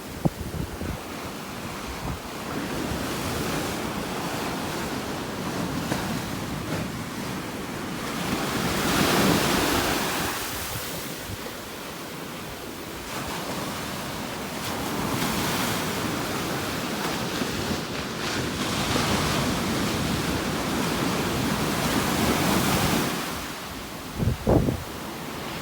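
Ocean surf breaking and washing up the beach, swelling and ebbing in slow waves, with wind on the microphone. A brief low thump of wind buffeting comes near the end.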